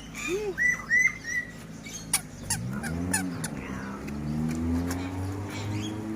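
Bird chirping, three quick chirps in a row about half a second in, followed by scattered clicks. From about halfway through, a low hum rises slowly in pitch.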